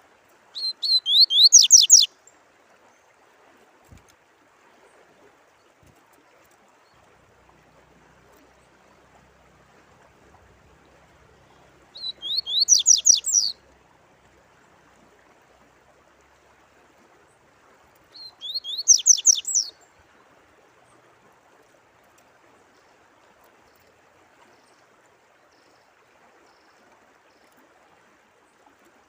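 Songbird singing three short phrases of rapid, repeated falling notes, each about a second and a half long: near the start, about 12 s in and about 18 s in. A faint steady trickle of running water sounds beneath.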